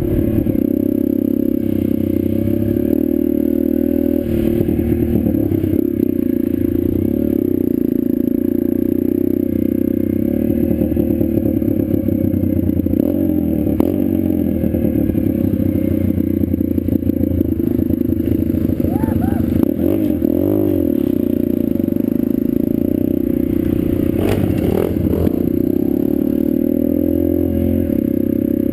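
Small pit bike engine running steadily as the bike is ridden, with rattling and scraping alongside it; the pitch swings up and down briefly about two-thirds of the way in.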